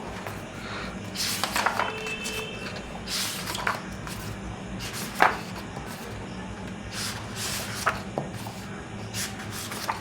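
Paper pages of a paperback picture book being turned one after another: several short papery swishes, with a sharp flick about five seconds in.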